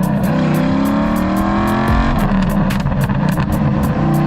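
Sports car's V8 engine accelerating hard, its pitch climbing for about two seconds, dropping sharply on a gear change, then climbing again.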